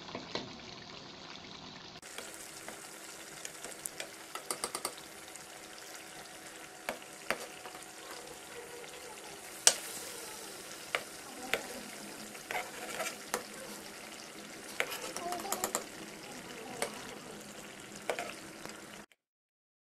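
Chicken and tomatoes sizzling as they fry in oil in a metal karahi over high heat, while a metal spatula scrapes and knocks against the pan in irregular clicks, the sharpest knock about halfway through. The sound cuts off suddenly just before the end.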